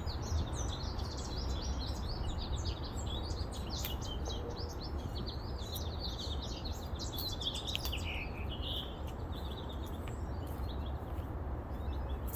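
Many small birds chirping and twittering in quick, overlapping short notes, with a steady low rumble beneath.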